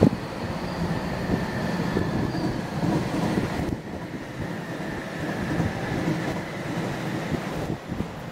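Docklands Light Railway B07-stock train pulling away from the platform: a steady rail rumble with a high traction-motor whine that fades as the train draws off into the distance. A sharp thump right at the start.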